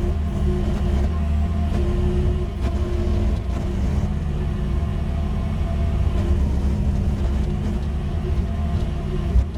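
Mini excavator (QH13R) engine running steadily under work, with a higher hydraulic-style whine coming and going in the first few seconds.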